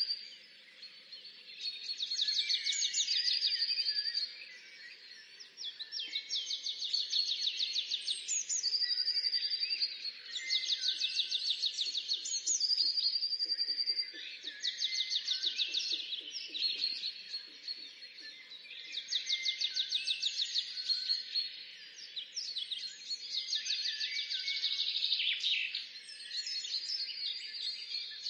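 Songbirds singing, overlapping phrases of fast trills and short whistles that repeat every few seconds.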